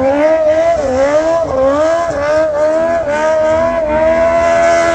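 A small car's engine revving in repeated rising surges as it spins donuts in a smoky burnout, its tyres spinning against the track. About three seconds in the revs settle and are held steady and high.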